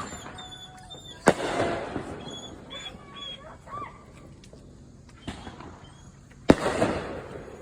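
Two fireworks bangs about five seconds apart, each a sharp report that trails off over about a second. A dog whimpers faintly between them.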